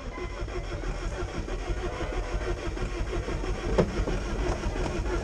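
Rover K-series engine in an MG ZR running with a steady, rough rumble, with a single sharp knock about four seconds in.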